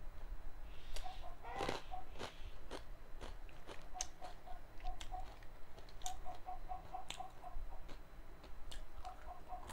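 Close-up crunching and chewing of chatpate, a crisp spicy puffed-rice and Kurkure snack eaten by the spoonful, with many sharp crunches. A few quick runs of short high pips sound faintly behind it.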